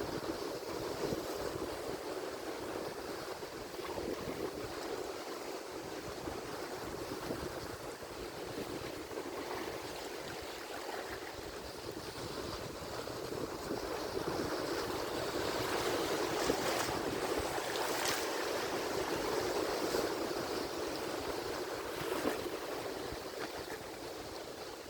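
Atlantic Ocean surf breaking and washing continuously, swelling louder in the middle as a bigger wave comes in.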